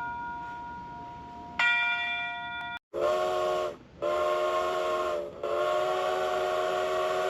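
Steam locomotive chime whistle sounding three blasts: a short one, another short one and a long one, each a chord of several notes at once. Before the blasts a bell-like ringing tone fades and is struck again about a second and a half in.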